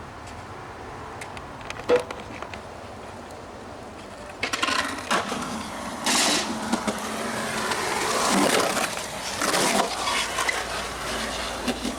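Skateboard rolling and scraping on a hard surface from about four and a half seconds in, with louder scrapes near six and ten seconds. A single sharp clack about two seconds in.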